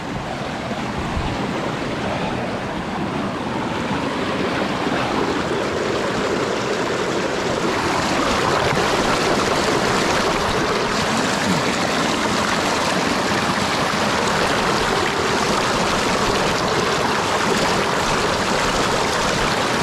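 Rushing stream: a steady wash of moving water that grows louder over the first several seconds, then holds steady.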